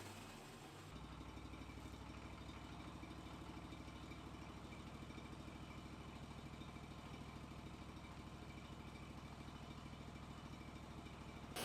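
An engine running at a steady idle, with an even low pulse, starting about a second in.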